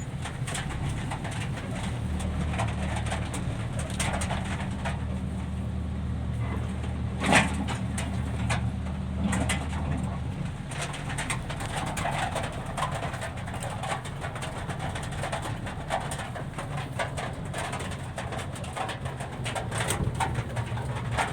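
Dump truck's engine running with a steady low drone, heard from the cab; the lowest part of the drone drops away about ten seconds in. Scattered light clicks throughout and one sharp knock about seven seconds in.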